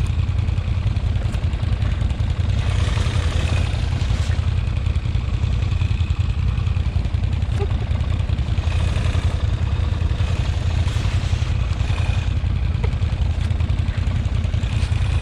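ATV engine running steadily with an even low drone.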